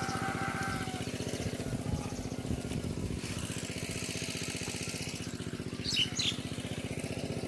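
Engine of a water pump running steadily, its firing strokes evenly spaced, as it pumps the water out of a pond. A few short bird chirps about six seconds in.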